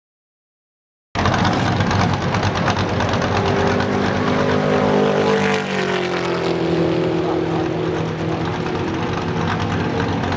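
Digital silence for about the first second, then a NASCAR stock car's V8 engine running at speed; its pitch falls about halfway through and then holds steady.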